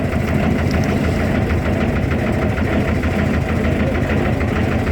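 Fishing boat's engine running steadily at a low, even pace with a rapid rhythmic knock.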